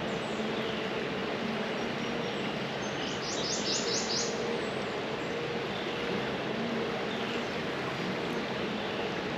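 A bird calls once, a quick run of about five short high notes about three seconds in, over a steady outdoor background hiss.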